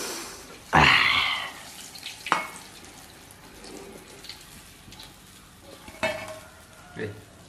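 Battered papaya pieces frying in hot oil in a wok with a low sizzle, while a metal spatula clicks and scrapes against the wok, lifting pieces out. A loud, short rushing burst comes about a second in.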